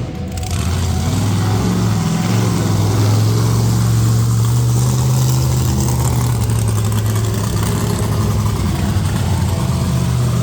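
Monster truck engine running loud and fairly steady, holding a low even pitch, with a brief drop in level right at the start.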